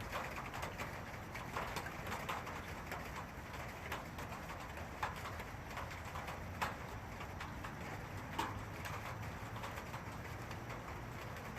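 Steady rain, with frequent single drops ticking sharply on a nearby surface.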